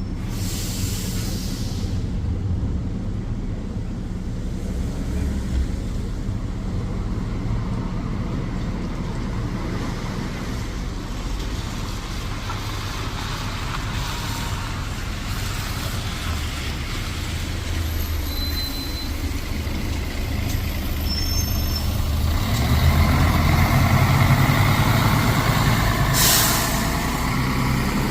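Bus diesel engine running steadily, with a short air-brake hiss about a second in and another near the end. The engine noise grows louder from about two-thirds of the way through.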